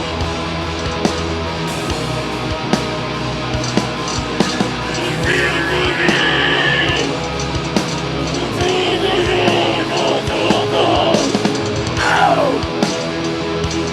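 Metal band playing live: distorted guitars and bass over steady drum hits, with a descending slide near the end.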